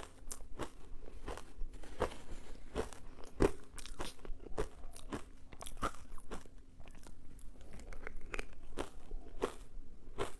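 Ice being bitten and chewed, with sharp, irregular crunches about twice a second; the loudest comes about three and a half seconds in.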